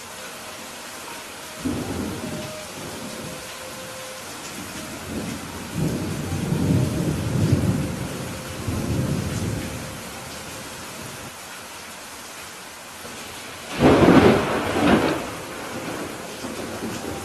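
Steady rain with thunder: a short rumble about two seconds in, a longer rolling rumble in the middle, and a louder, sharper thunderclap near the end.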